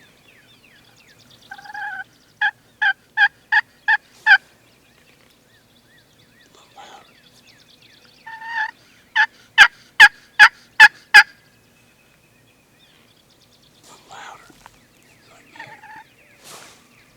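Turkey hen yelping: two loud series of yelps, each a drawn-out first note followed by five or six short, sharp notes a little under half a second apart. Fainter calls follow near the end.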